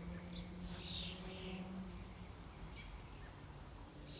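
Small birds chirping outdoors: a few short high calls, the clearest about a second in, over a faint steady low hum that fades partway through.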